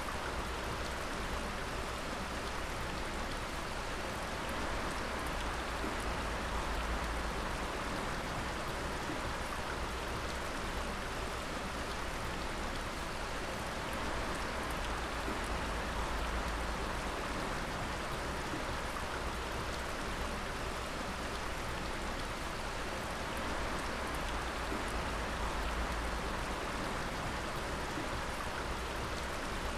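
Water dripping and pattering in a steady, dense shower of drops, with a low steady rumble underneath.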